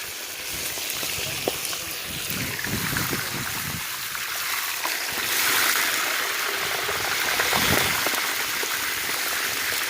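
Steady hiss of fish frying in hot oil with rain falling, swelling from about five seconds in, with a few faint ticks.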